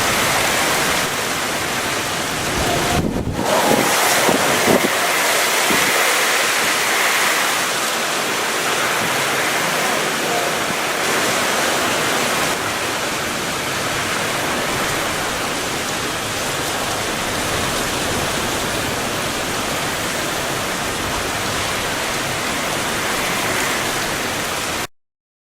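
Typhoon wind and rain: a steady, loud rushing noise. It dips for a moment about three seconds in, then comes back in a louder gust with low buffeting, and stops abruptly near the end.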